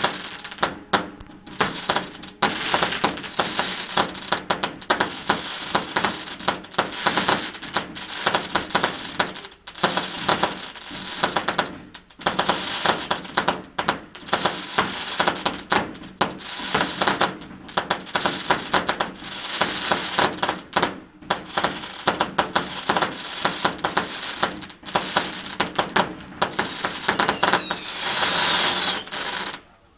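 Backyard consumer fireworks going off in a rapid, continuous run of bangs and crackles over a hiss of burning effects. A few falling whistles come near the end, and the noise stops suddenly.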